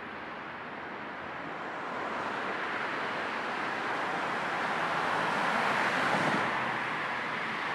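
Road noise of a moving car, an even rushing hiss that swells louder from about two seconds in and eases slightly near the end.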